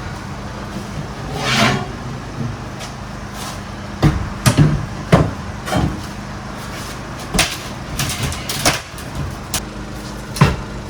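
Crowbar prying up wooden floorboards off a bus's metal floor: a series of sharp knocks, cracks and wood splintering, the loudest cluster about four to five seconds in and another strong crack near the end, over a steady low hum.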